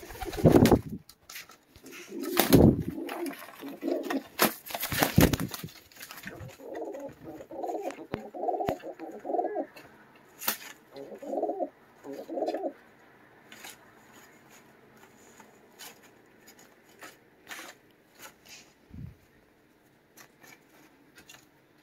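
Pet pigeons squabbling: a few loud sharp scuffling sounds in the first six seconds, then a pigeon cooing in a run of short pulsed calls for about six seconds, then only scattered light taps. The agitated male is overheating.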